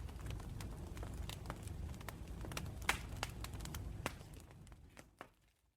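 Campfire crackling, with frequent sharp pops of burning wood over a low rumble of flames, fading out over the last second or so.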